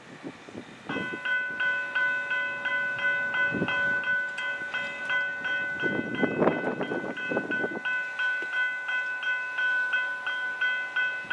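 Railroad grade-crossing warning bell starting about a second in and dinging rapidly and evenly, the sign that the crossing gates are activating for an approaching train. Louder, lower sound breaks in over it about six to eight seconds in.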